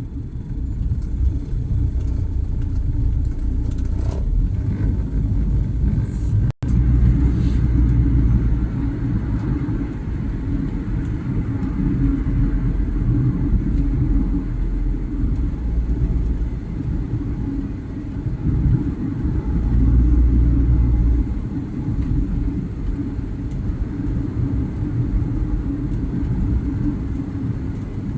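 Steady low rumble of a vehicle on the move, road and engine noise with no speech. The sound cuts out completely for a split second about six and a half seconds in.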